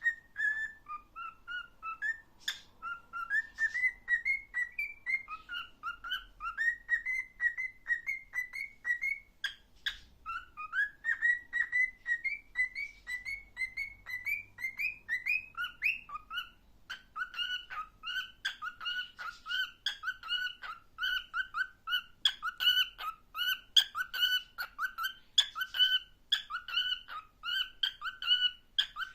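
Cockatiel whistling a tune, a learned folk melody. It goes in strings of short, rising whistled notes, then a little past halfway it changes to a fast, steady run of repeated notes that jump between a lower and a higher pitch.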